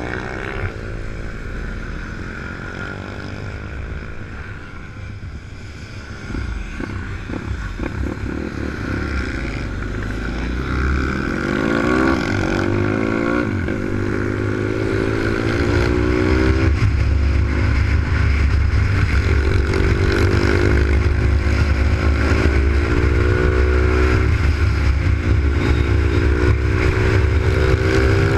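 Zongshen Z155 single-cylinder four-stroke pit bike engine heard from on the bike while it is ridden, its pitch climbing and then dropping several times as it accelerates and shifts. It gets louder from about halfway through and stays at high revs.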